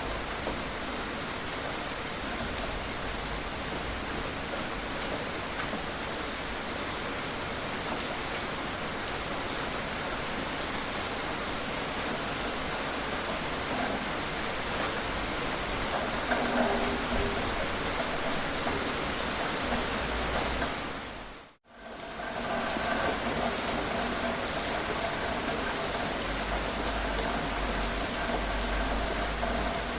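Steady rain falling. About two-thirds of the way through, it fades out to silence for a moment and comes back.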